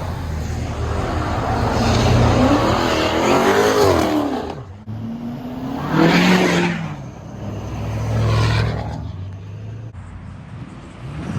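Car engine revving, its pitch rising and falling twice, over a steady low engine drone that swells again near the end.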